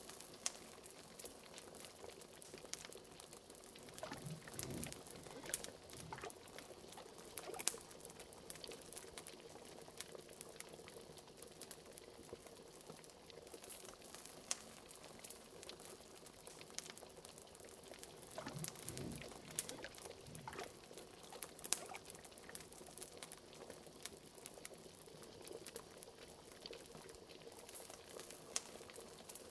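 Liquid bubbling at a steady boil in a cauldron, with fire crackling: many small sharp pops and crackles throughout. Deeper glugging bubbles swell about four seconds in and again near twenty seconds.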